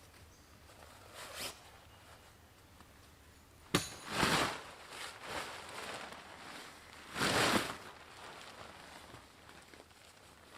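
Camping gear being handled: a sharp click, then two brief rustling swishes a few seconds apart.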